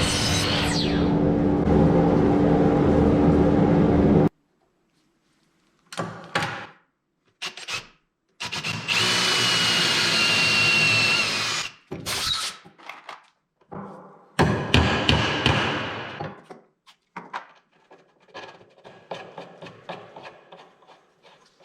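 Woodworking power tools heard in short separate bursts: a steady machine sound that cuts off suddenly about four seconds in, then several brief tool runs, the longest about three seconds with a steady high whine, followed by scattered knocks and clicks.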